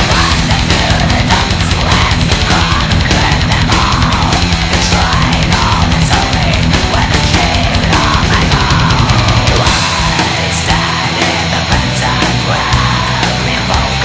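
Melodic black metal song with fast, dense drumming under a busy guitar melody; about ten seconds in the rapid low drumming thins out.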